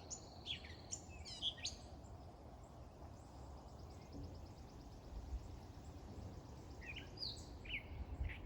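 Songbirds chirping and calling in short sweeping notes near the start and again near the end, with a fast, even trill in the middle, over a low rumbling background.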